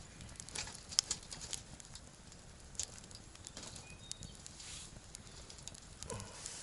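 Wood fire crackling in a Picogrill 398 fire pit: scattered sharp snaps and pops at irregular intervals over a low steady hiss.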